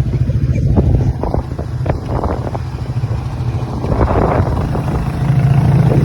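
ATV engine running hard under throttle, under load as it drives forward through mud to pull a stuck four-wheeler free. Short noisy bursts come about two and four seconds in, and it gets a little louder near the end.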